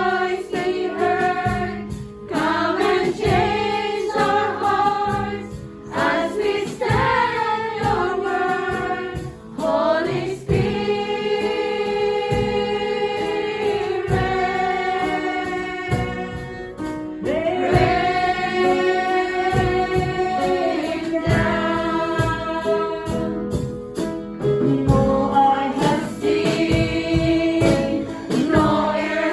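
Choir singing a slow Christian worship song, with long held notes in the middle.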